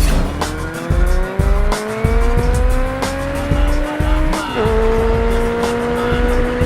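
A car engine accelerating as a film sound effect: its pitch climbs steadily, drops sharply at a gear change about four and a half seconds in, then holds. Underneath is music with a thumping bass beat.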